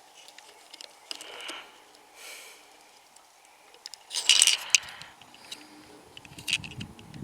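Small clicks and clinks of a die-cast toy truck's parts being handled, with a dense cluster of sharp clacks about four seconds in and a few more near the end.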